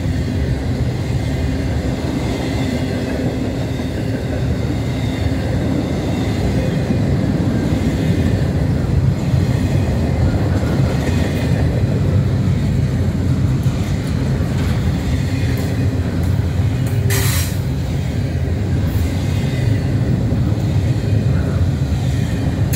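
Double-stacked intermodal well cars of a freight train rolling past at close range: a steady rumble of steel wheels on the rails. About 17 seconds in there is one brief, sharp burst of noise.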